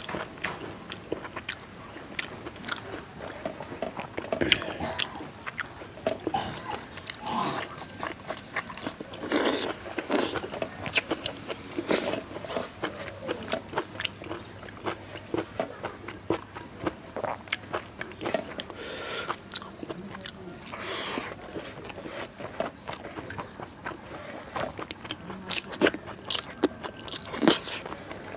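A person chewing a meal of rice, dal and fried vegetables, with irregular wet clicks and crunches of food in the mouth.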